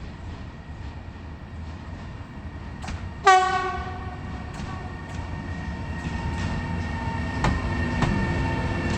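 A train approaches and gives a short horn blast a little over three seconds in. Its rumble and the clicks of wheels over rail joints then grow steadily louder.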